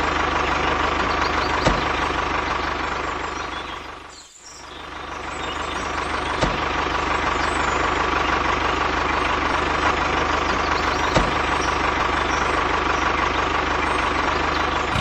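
Small electric motor of a homemade miniature tractor model running steadily with a high whine. The sound drops away briefly about four seconds in, then builds back up, with a few faint ticks along the way.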